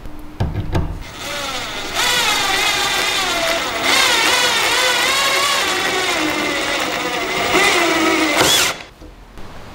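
A handheld power tool's electric motor running for about seven seconds, its pitch wavering up and down as the load on it changes, then switching off. A few knocks come just before it starts.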